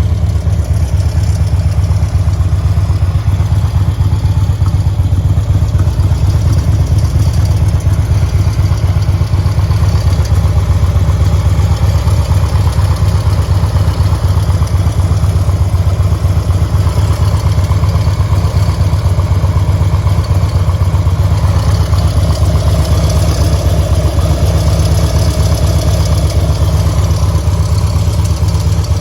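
2006 Harley-Davidson FLTR-I Road Glide's fuel-injected 1450 cc V-twin idling steadily through S&S oval mufflers.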